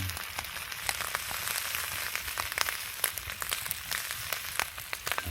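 Wood fire crackling: a steady hiss with many small sharp pops and snaps.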